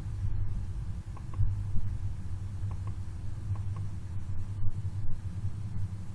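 Steady low rumbling hum centred around 100 Hz, picked up by a CCTV camera's microphone, with a few faint ticks over it; its cause is unexplained.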